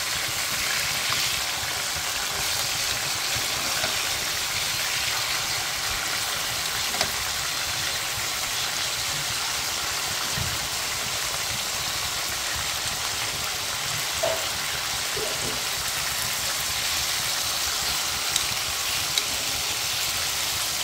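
Marinated chicken strips sizzling steadily in oil on a grill pan. A few light clicks come from metal tongs as the pieces are turned over.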